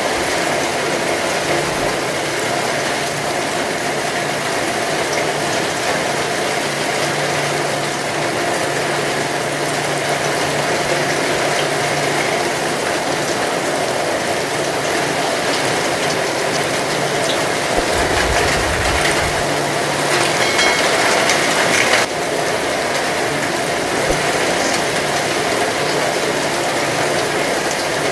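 Steady heavy rain falling, a dense continuous hiss and patter, with a brief low rumble about two-thirds of the way through and a brighter hiss that cuts off suddenly a little later.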